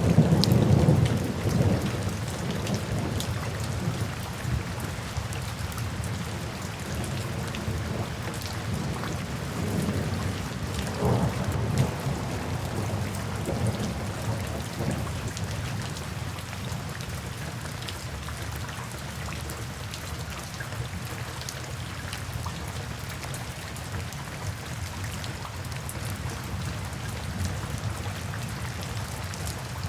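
Steady rain falling, with low rolling thunder rumbling loudest at the start and again around ten to fifteen seconds in, then easing off.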